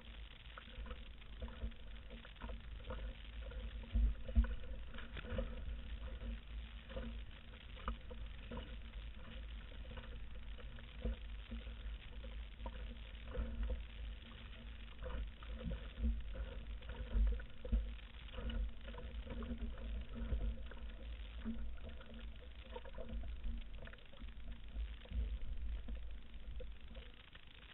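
Water lapping and slapping in many small irregular splashes, as against a canoe hull, over a constant gusty rumble of wind on the microphone.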